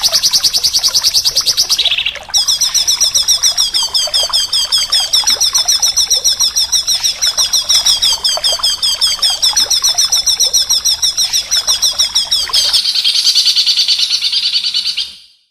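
A small songbird singing a loud, high-pitched, fast trill of rapidly repeated chirps. The pattern of the trill changes abruptly a couple of seconds in and again near the end, where the sound briefly cuts out.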